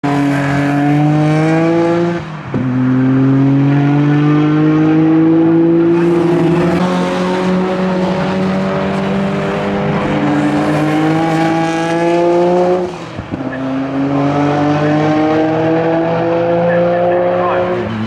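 Nissan Skyline R32 GT-R Group A race car's twin-turbo straight-six accelerating hard through the gears, its note climbing steadily. It breaks off briefly twice, about two seconds in and again near the end, and comes back lower each time at an upshift.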